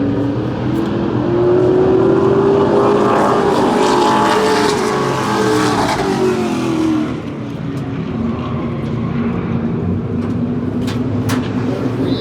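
Stock race car engine running, rising in pitch and loudness for a few seconds, then easing back down to a steady run.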